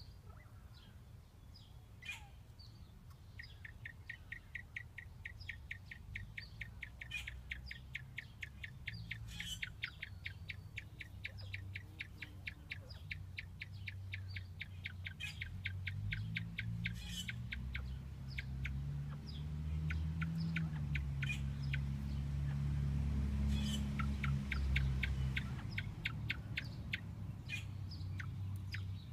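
A bird's long run of short, evenly spaced call notes, about six a second, that starts a few seconds in, breaks off past the middle and returns near the end. A low rumble swells past the middle and is the loudest sound. Scattered light clicks run throughout.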